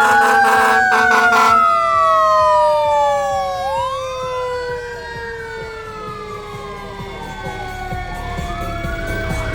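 Fire truck sirens sounding together: one long tone winds slowly downward throughout, while an electronic wail rises and falls over it. A rapid pulsing siren tone sounds for the first second and a half and starts again near the end.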